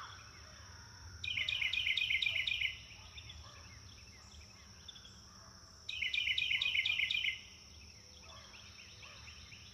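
Birds calling outdoors: two loud bursts of rapid, repeated high chirps, each lasting about a second and a half, with fainter calls in between over a steady high-pitched buzz.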